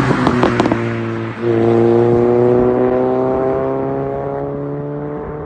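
A car engine revving hard with a burst of sharp pops and cracks. About a second and a half in it settles into one steady note that climbs slowly in pitch and fades away.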